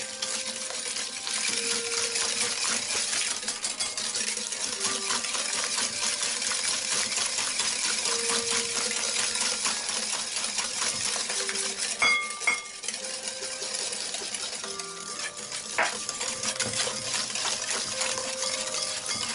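Metal wire whisk beating butter, sugar and eggs by hand in a bowl: a fast, continuous scraping and clicking of the wires against the bowl, with a few louder clinks a little past the middle.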